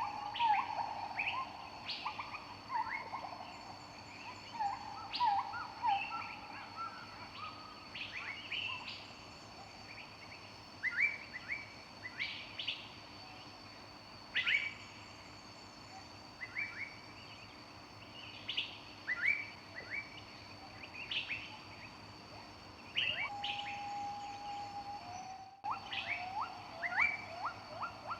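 Forest birds chirping and calling: many short, quick chirps, with runs of lower whistled notes near the start and again near the end, over a faint steady high-pitched tone. The sound cuts out for a moment near the end.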